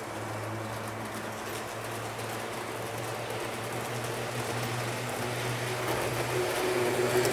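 HO-scale Lima E 10 model electric locomotive running with its train, the model's electric motor giving a steady low hum over the rattle of wheels on track, growing gradually louder.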